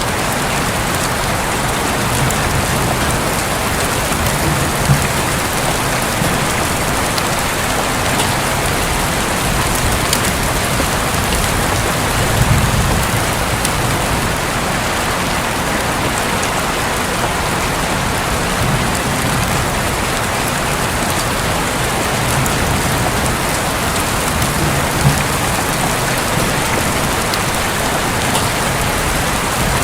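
Steady heavy rain drumming on a roof, with a few louder drop strikes.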